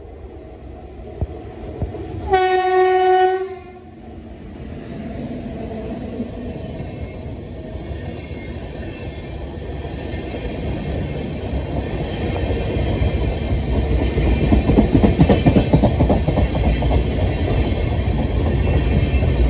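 The electric locomotive's horn sounds one loud blast of about a second and a half, a couple of seconds in. Then the express train's coaches run past at speed, the rumble and rapid clickety-clack of wheels over the rail joints building up and becoming loudest in the second half.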